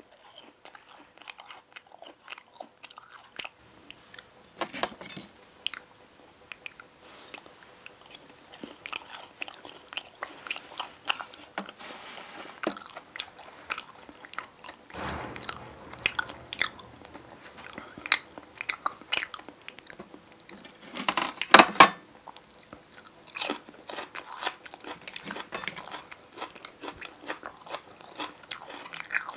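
Close-miked eating: crunchy bites and chewing, with a burst of louder crunching about 21 seconds in.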